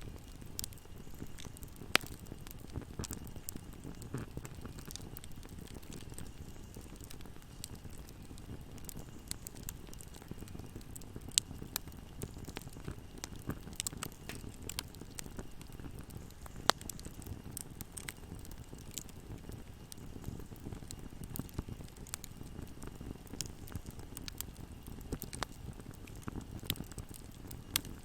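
Wood fire burning in a fireplace: a steady low rumble of flames with frequent crackles and pops, a few sharp loud snaps among them.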